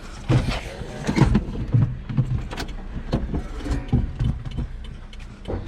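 1986 Toyota pickup's engine being cranked over by its starter motor in uneven bursts, not yet firing, as it is brought back to life after sitting for years.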